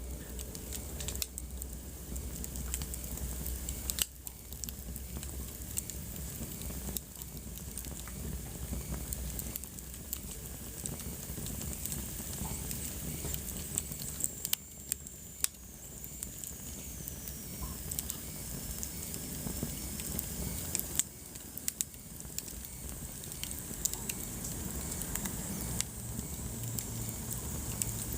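Wood fire burning in a fireplace: steady crackling with frequent sharp pops, and a faint high whistle sliding down about halfway through.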